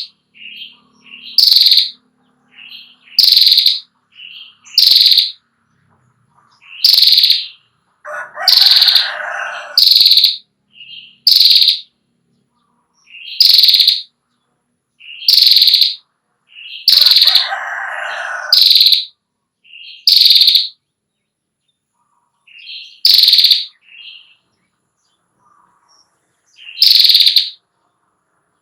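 Female prinia (prenjak klawu) giving its sharp, high-pitched 'ngetir' call, short notes repeated every second or two with brief pauses. A lower, rougher call sounds twice in the background.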